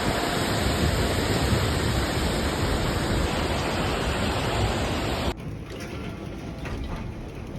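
Loud steady rush of heavy rain, cutting off suddenly a little over five seconds in to a much quieter background with a few faint clicks.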